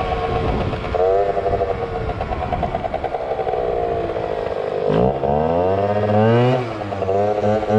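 Small motorcycle engine, a Yamaha ZR Evo, running steadily with a slowly falling pitch. About five seconds in it is revved hard, and then blipped up and down a few times.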